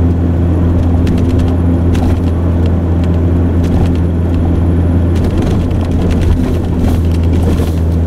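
1999 Ford Ranger pickup driving through snow, heard from inside the cab: a steady low engine and road drone with scattered faint ticks and clicks.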